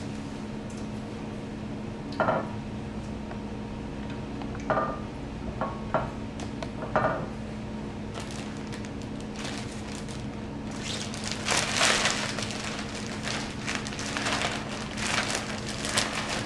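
Chicken pieces being pressed and turned in a dry coating of pecan meal and flour in a dish: a few short knocks in the first half, then gritty rustling and crackling from about halfway through. A steady low hum sits underneath.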